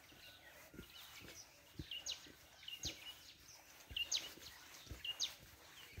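A bird calling again and again, each call a short hooked note followed by a quick rising whistle. Soft footsteps of someone walking thump about once a second underneath.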